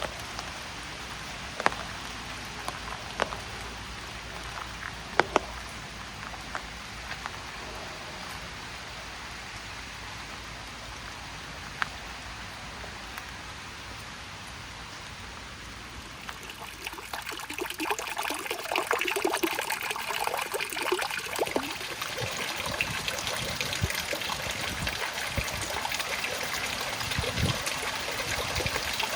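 Steady summer rain with a few single large drops landing close by. About two-thirds of the way through, louder splashing and trickling running water comes up and carries on.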